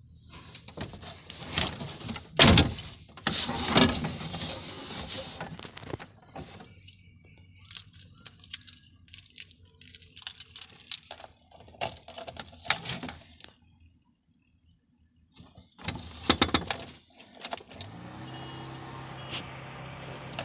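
Car keys jangling and clattering with scattered knocks and clicks. About three seconds before the end, the 1988 Suzuki FX is started: a steady mechanical hum sets in, its pitch bending at first and then holding.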